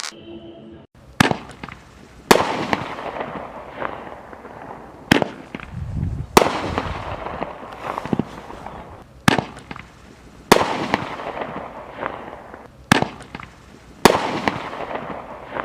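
Roman candles firing: about nine sharp pops, one to three seconds apart, each followed by a fading crackling hiss as the shot flies and burns.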